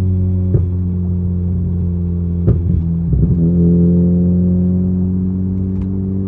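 Exhaust drone of a 10th-gen Honda Civic Si's 1.5-litre turbocharged four-cylinder through a Tomei aftermarket exhaust while cruising. It is punctuated by sharp pops about half a second in, once at about two and a half seconds, and in a quick cluster just after that.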